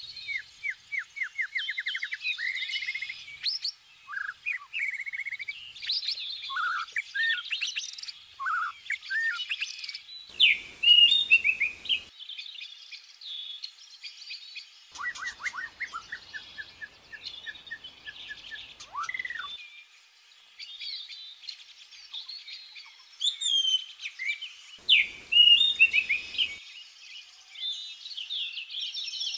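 Small birds chirping and trilling, several calls overlapping, with rapid runs of repeated notes and quick whistled glides. Faint hiss comes in twice, briefly.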